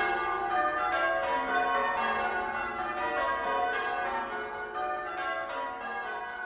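Church bells of Henlow change ringing: a peal of overlapping bell strikes, gradually fading out.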